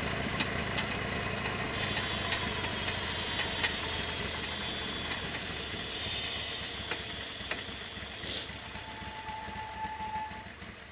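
Harley-Davidson XL1200R Sportster's air-cooled V-twin idling while the bike coasts in neutral, with sharp irregular knocks and rattles, most of them in the first few seconds. The owner takes the knocking over bumps for something on the bike striking something else. The sound fades out near the end.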